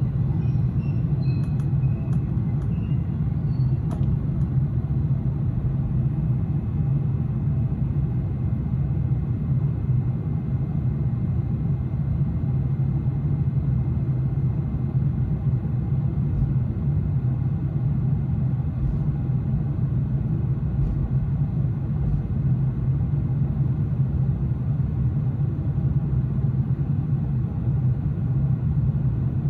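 Steady low rumble of a Vienna S-Bahn commuter train running along the line, with a few faint short high squeaks and a click in the first few seconds.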